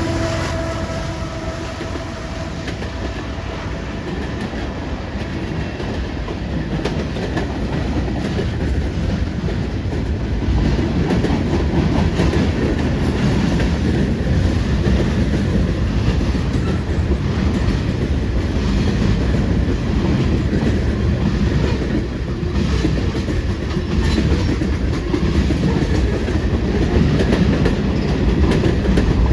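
A freight train rolling past close by: a steady rumble with the clickety-clack of steel wheels over rail joints, growing louder about ten seconds in and then holding.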